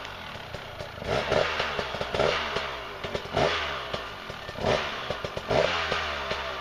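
Enduro dirt bike engine revved in short bursts, about once a second, as the bike climbs a snowy slope.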